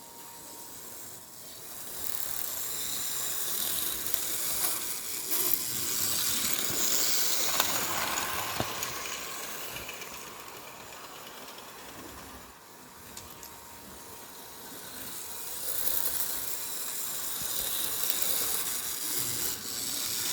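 HO-scale model train running on its track, a hissing whir of its small motor and wheels on the rails. It swells twice as the train comes near and fades as it moves away, with a few sharp clicks at the first peak.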